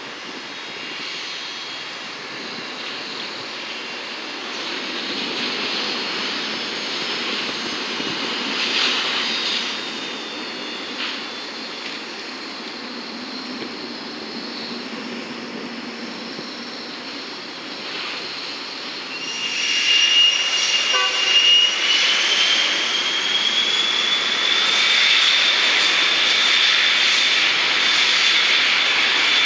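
Aircraft engines running, a steady rush of noise. About two-thirds of the way in the sound grows louder and a high engine whine comes in, rising in pitch and then holding as the engines spool up.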